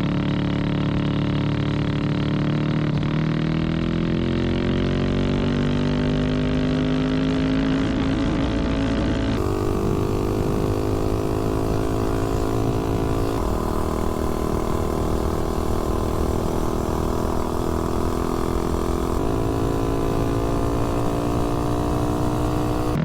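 Tillotson 225 single-cylinder four-stroke engine on a mini bike under full throttle on a top-speed run. The revs climb steadily for about nine seconds, then hold at a steady high pitch near top speed.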